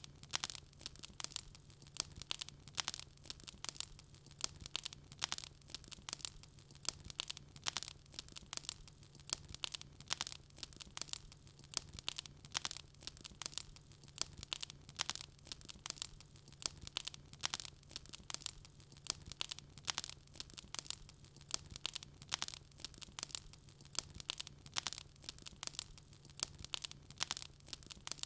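Wood fire crackling: dense, irregular sharp pops and snaps, with a faint low steady hum underneath.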